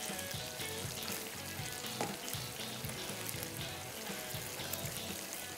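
Cornflour-coated prawns shallow-frying in hot oil, a steady sizzle, with a single light knock about two seconds in.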